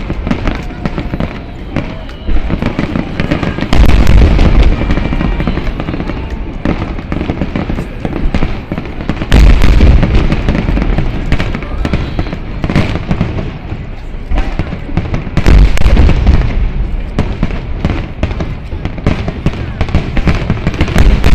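Fireworks finale: a dense run of crackling shell bursts, with a heavy low boom about every six seconds, four in all.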